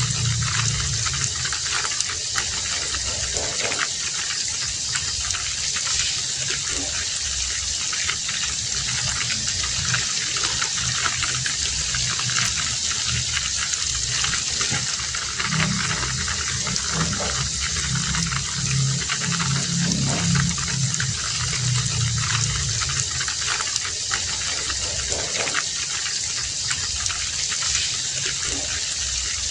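Heavy rain falling steadily as an even hiss, with a deeper layer underneath that swells and fades.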